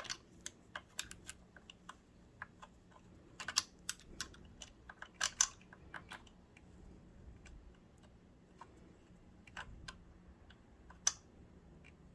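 Small screwdriver working a screw in the metal mechanism of a Kenmore sewing machine: irregular light clicks and taps of the tip in the screw head and against metal as the screw is tightened, with a few louder clicks around the middle and near the end.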